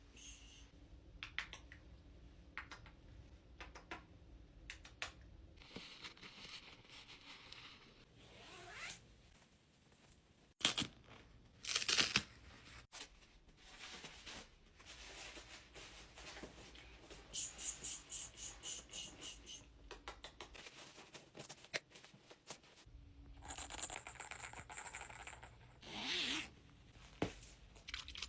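Household handling noises: scattered clicks and knocks with short rustling, tearing or rubbing swishes, the loudest a couple of sharp swishes about a third of the way in.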